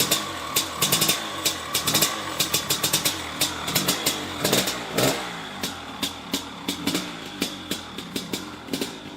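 1997 Maico 500 two-stroke single-cylinder dirt bike engine running at a low, uneven idle with sharp irregular exhaust pops, blipped up and back down about halfway through. It is running cold, which the owner takes for running a bit rich until warmed up.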